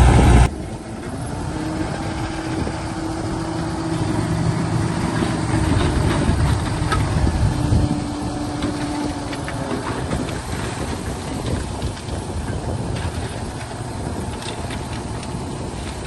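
Diesel engine of heavy earthmoving machinery running steadily, with a held tone that comes and goes in the first half. A louder engine sound cuts off suddenly about half a second in.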